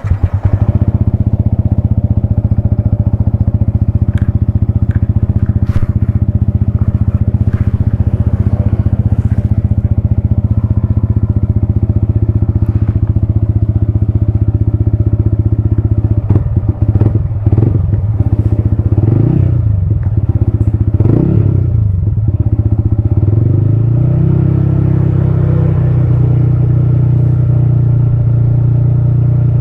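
Yamaha XSR155's single-cylinder engine idling steadily, then blipped three times in quick succession about halfway through and settling at a higher steady speed near the end.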